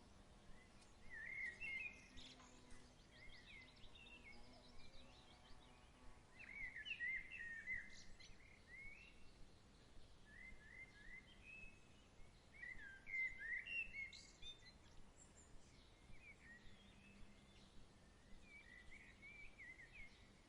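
Small birds chirping in short, quick phrases, a burst every few seconds, over a faint steady outdoor hush.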